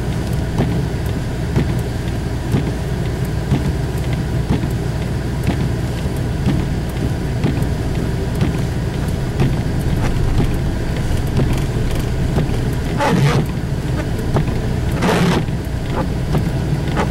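Steady low engine and road rumble heard from inside a vehicle driving slowly on a snow-covered road. Near the end there are two short swishing noises about two seconds apart.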